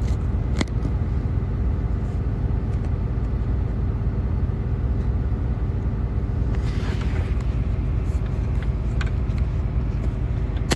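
Steady low rumble of a truck idling, heard from inside the cab, with a few light clicks and a short hiss about seven seconds in.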